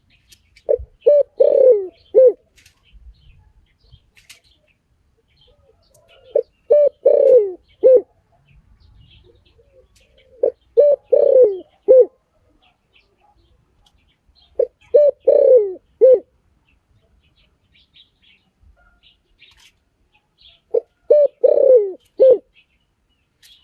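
Spotted dove cooing: five phrases in a steady repeat, each a few short coos with a longer falling coo in the middle. Faint high chirps of other small birds come between the phrases.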